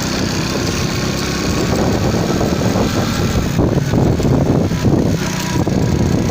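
Motorcycle engine running while riding, a steady low drone, with wind rushing and buffeting on the microphone growing rougher a couple of seconds in.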